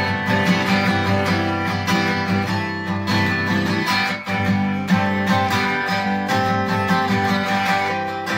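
Donner DAG-CE1 acoustic-electric cutaway guitar, all-wood with a spruce top and mahogany back and sides, played acoustically: picked and strummed chords and notes ringing on steadily.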